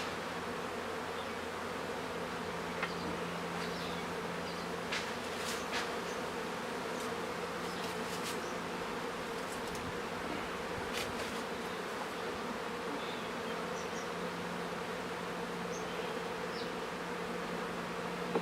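Honeybees buzzing around an opened hive, a steady dense hum, with a few short light clicks scattered through it.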